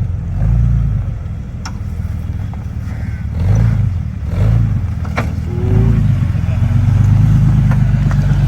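An off-road 4x4's engine revving in repeated surges as it works over a trail obstacle, the longest push near the end. Two sharp knocks stand out, one in the first two seconds and one about five seconds in.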